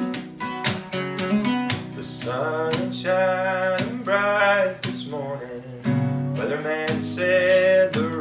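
Acoustic guitar strummed and picked, with a voice starting to sing over it about two seconds in.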